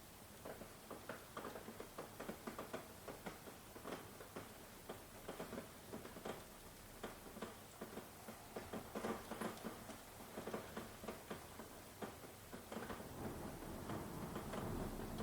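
Rain falling, heard as many separate drops ticking and pattering at an uneven pace; it grows a little louder and fuller near the end.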